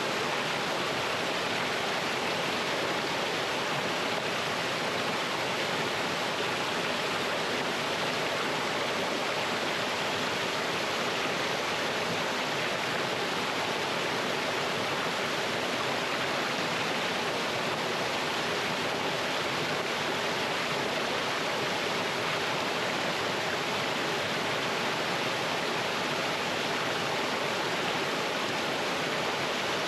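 Mountain stream flowing over rocks in a small cascade, a steady rushing and splashing of water.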